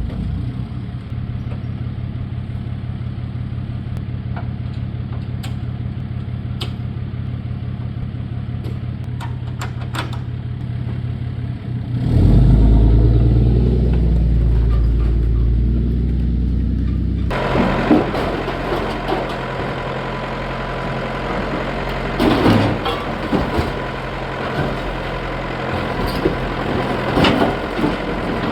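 Truck engine running, louder and deeper from about twelve seconds in. In the second half it changes to a lighter running sound, with a few scattered knocks and clanks.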